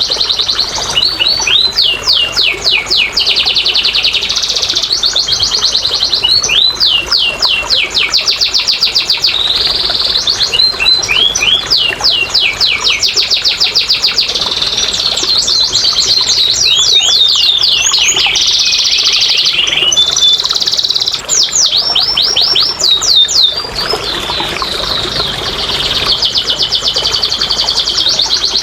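Domestic canary singing a long, fast song of rapid trills and repeated sweeping whistled notes with barely a pause, a lure song meant to prompt idle canaries to sing.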